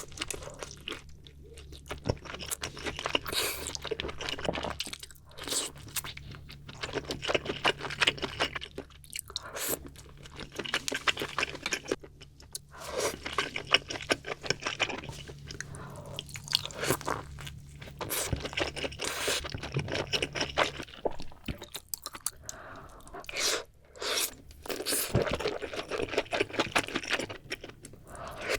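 Close-miked eating of seafood: crunching and chewing, dense crackling clicks in bursts with a few short pauses between mouthfuls.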